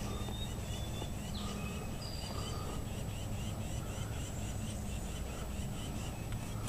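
Wild songbirds singing and calling: short whistled notes, then a quick run of repeated chirps through the second half, over a steady low rumble.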